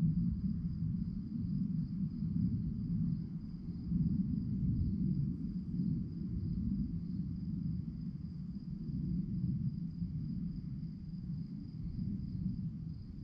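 Crickets chirping in a faint, steady high-pitched trill, over a louder low rumbling noise that rises and falls.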